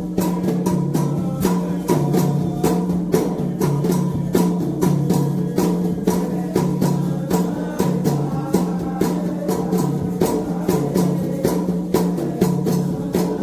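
Candomblé toque: atabaque hand drums and a metal bell play a fast, steady rhythm, with voices singing a chant over them.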